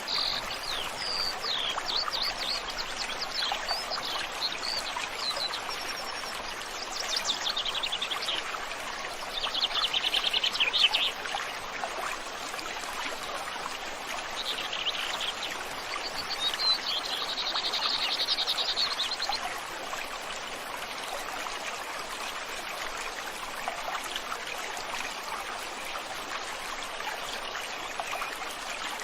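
Stream flowing with a steady rush of water, with songbirds calling over it: quick chirps and trills through the first ten seconds or so, and a rapid trilling phrase again about halfway through. The birds then fall away, leaving only the running water.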